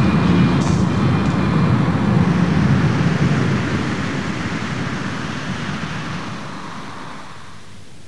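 Harsh noise music: a dense wall of distorted noise, heaviest in the low end, that fades out steadily over the last few seconds.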